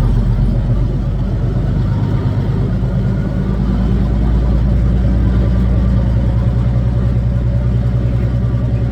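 Kenworth W900's Caterpillar diesel engine running steadily with a deep, even drone.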